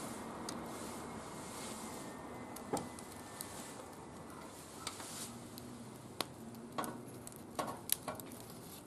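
Wood fire burning in a barbecue grill, crackling, with scattered sharp pops over a steady hiss that slowly fades.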